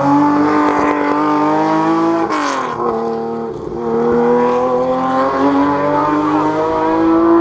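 Historic rally car's engine at high revs, accelerating hard along the stage: the pitch climbs, drops at an upshift a little over two seconds in with a brief noisy burst, then climbs again.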